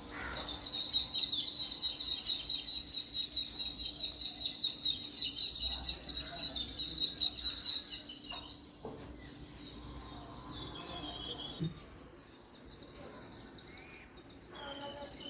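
Small pet birds chirping and chattering in a dense, rapid stream of high-pitched notes, loud at first and dropping to a quieter level after about twelve seconds.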